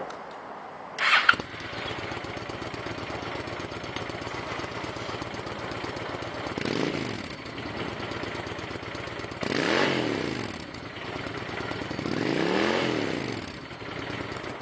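2009 Honda Shadow Spirit 750's liquid-cooled V-twin engine starting about a second in, then idling and revved three times, each rev rising and falling back to idle.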